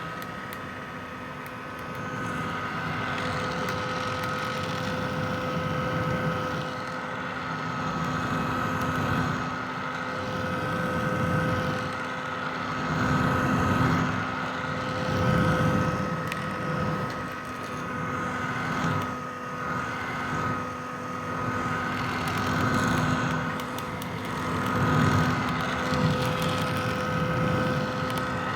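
Vintage hair dryer running steadily: a motor whine with a few fixed tones over the rush of blown air, the loudness swelling and easing every few seconds.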